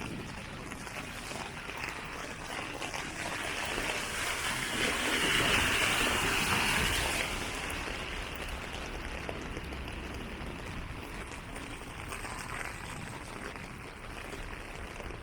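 Steady hiss of rain on wet city streets, with a louder rushing swell for about three seconds in the middle.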